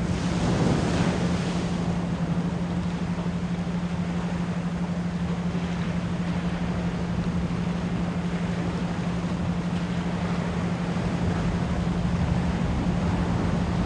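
A steady 174 Hz pure tone, layered as isochronic pulses, over the continuous rushing noise of ocean waves; a wave swells and washes in about a second in.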